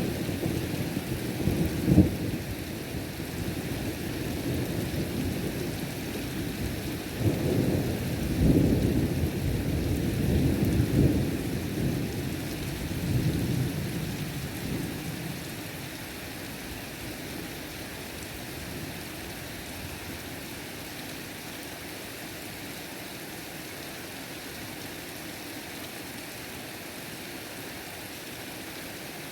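Thunder rumbling over heavy rain: a sharp clap about two seconds in, then a long rolling peal in the middle that dies away, leaving the steady hiss of heavy rainfall.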